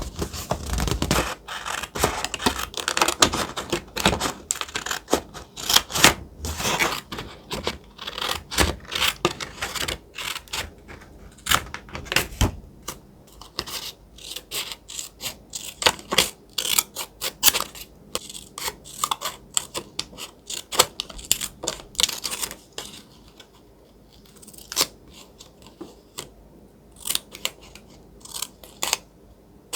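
Thick paper being handled for a collage journal: dense crinkling, rustling and scraping that thins out to occasional crisp clicks and taps about two-thirds of the way through.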